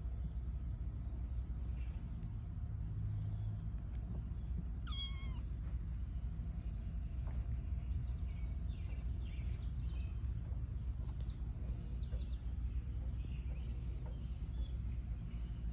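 A six-week-old kitten meows once, about five seconds in, over a steady low rumble; a few faint short squeaks follow later.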